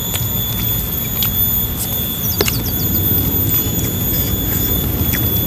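Close-miked eating sounds: scattered wet chewing clicks and lip smacks from people eating with their hands, over a steady background hiss with thin steady high tones.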